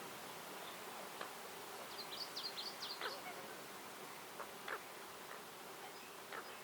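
Faint forest ambience: a steady insect buzz, with a bird's quick run of high chirps about two seconds in and a few single short calls scattered through.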